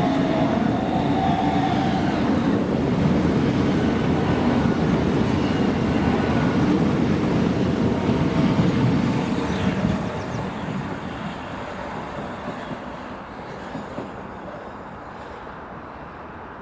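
A train passing on the rails, its wheels and running gear loud for about ten seconds, then dying away as it moves off.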